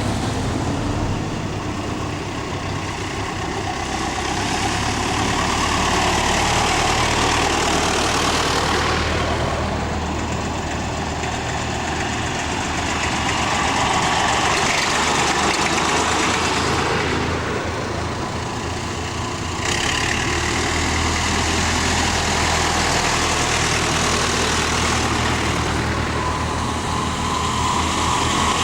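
Tractor engine running steadily on the move: a low drone under a broad rushing noise that swells and eases several times, with a sudden rise in the higher noise about twenty seconds in.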